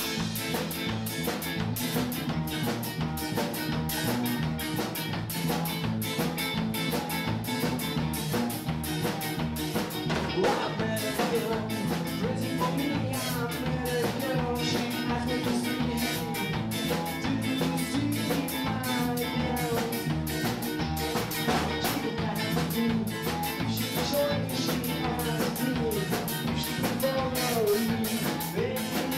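A band playing with drum kit and guitar over a steady beat.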